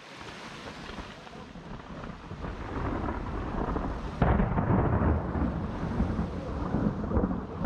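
Rolling thunder, with rain hissing beneath it. The rumble builds steadily, jumps suddenly louder about four seconds in, and keeps rolling.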